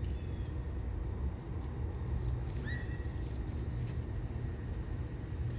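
Outdoor city ambience: a steady low rumble like distant traffic, with a single short high chirp a little before the middle.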